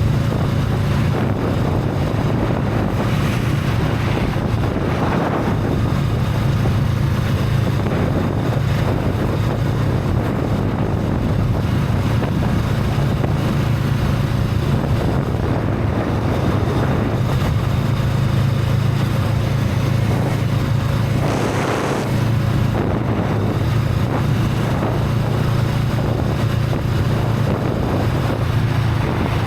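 Honda Rebel 500's parallel-twin engine running at a steady cruising speed through its stock exhaust, with wind noise on the microphone. Two brief swells of noise break in, about five seconds in and again about two-thirds of the way through.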